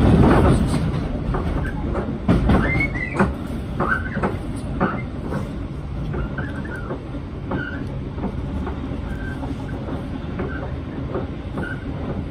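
Moving passenger train heard from inside the carriage: a steady rumble of wheels on track, with knocks and clicks over the rail joints, thickest in the first few seconds. A few short high squeaks come through.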